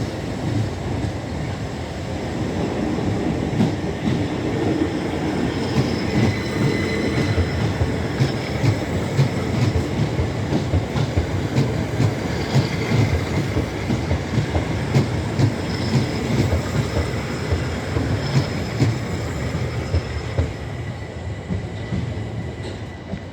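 Electric multiple-unit train rolling along the platform, wheels clicking over rail joints with a faint high wheel squeal. The sound grows louder a couple of seconds in and fades near the end.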